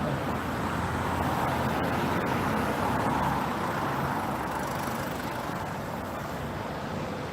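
Steady road-vehicle noise: a car running close by, with engine and tyre sound, easing slightly toward the end.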